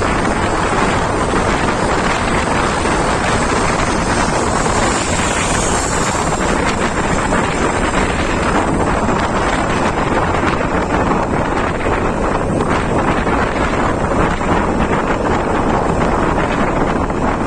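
Steady, loud wind noise buffeting the microphone while travelling along a road, a constant rush with no breaks.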